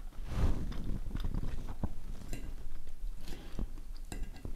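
A person chewing a mouthful of fried noodles (mie goreng), with a few light clicks of a fork against a ceramic bowl.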